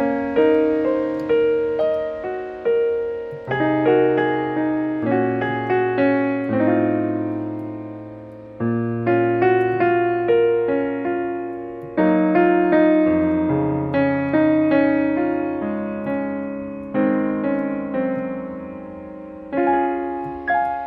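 Solo piano music: slow chords and melody notes, each struck and then fading, over changing bass notes.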